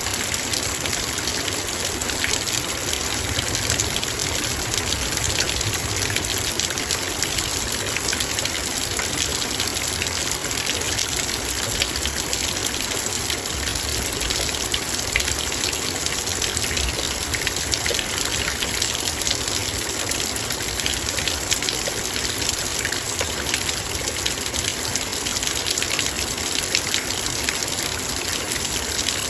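Heavy rain pattering steadily on a metal bowl, a dense even rush of many small drop ticks.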